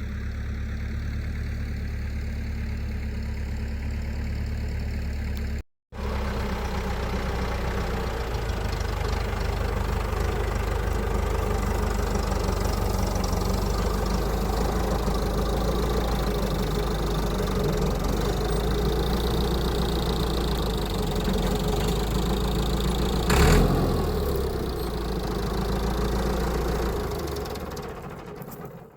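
An engine running steadily at idle with a low hum. It drops out briefly about six seconds in, a single knock sounds near the end, and the sound then dies away.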